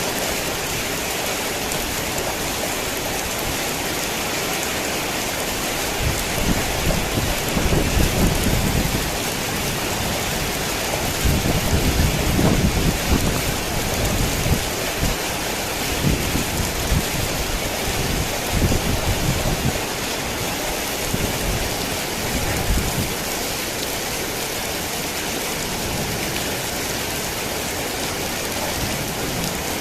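Steady heavy rain, with a long rumble of thunder rolling through the middle that swells twice before fading out.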